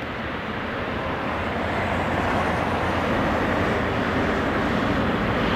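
Jet airliner's engines, a steady rushing noise that grows gradually louder as the aircraft approaches.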